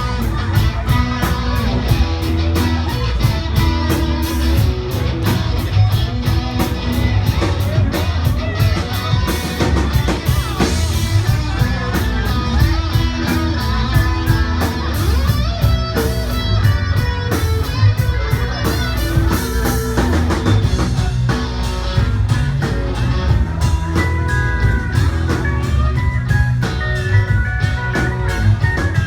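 Country-rock band playing an instrumental passage without vocals: guitar lead over a steady drum kit beat.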